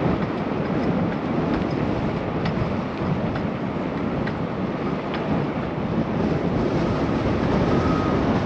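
Steady rush of wind and road noise while riding a bicycle: tyres rolling on pavement and air buffeting the camera microphone, with a few faint ticks around the middle.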